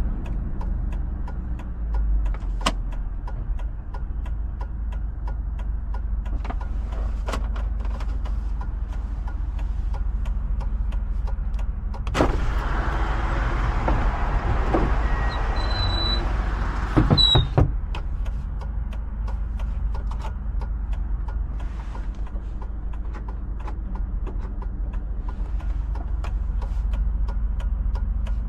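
Hummer H2's 6.0-litre V8 running steadily as a low hum, with small knocks and rattles scattered through. For about five seconds in the middle, a louder rushing noise starts and stops abruptly over the engine.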